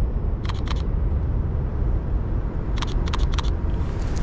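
Lumix S5 mirrorless camera shutter firing: two quick clicks about half a second in, then a rapid run of four clicks near the end. A steady low rumble of wind on the microphone runs underneath.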